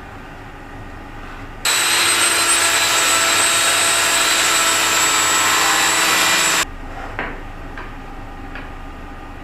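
Power saw cutting through plywood for about five seconds, a steady whine with a strong hiss that starts and stops abruptly. A few small clicks of wood being handled follow.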